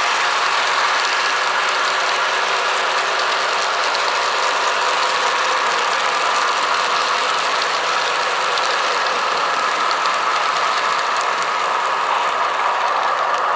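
Model train running on its track: a steady mechanical whir of motor and gearing with wheel noise on the rails, holding an even level throughout.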